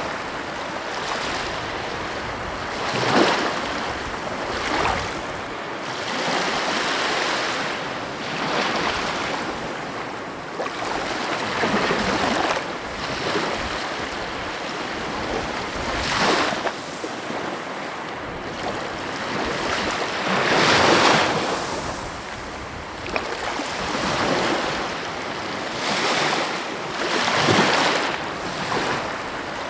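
Sea waves breaking and washing on the shore, a steady surf noise that swells every few seconds as each wave comes in.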